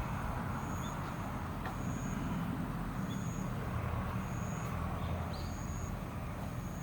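Steady low rumble of road traffic or an idling motor vehicle, with a faint high-pitched tone beeping about once a second over it.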